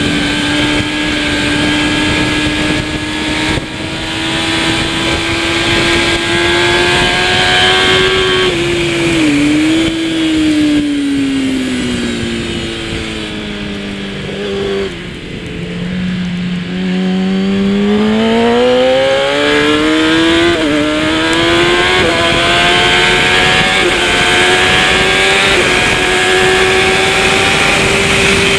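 Kawasaki ZX-10R superbike's inline-four engine running hard. About nine seconds in, the revs fall away over several seconds with stepped downshifts as the bike brakes for a corner. They climb again quickly from about eighteen seconds as it accelerates out, with short dips at upshifts near the end.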